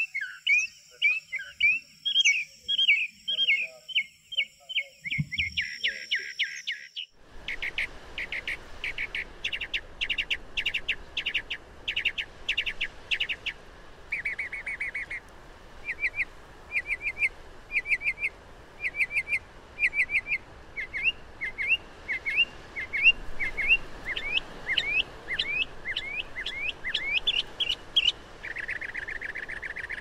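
Northern mockingbird singing: a long run of varied quick phrases, each repeated several times before switching to the next, mixing sharp chirps, rising whistled notes and buzzy stretches. About seven seconds in, the sound switches to another recording with a steady background hiss.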